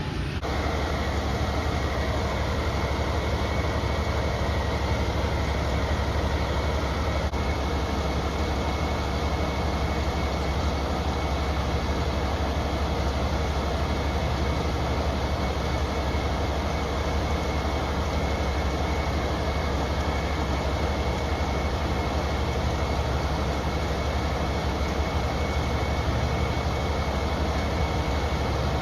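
Steady low rumble of a train at the station, even throughout.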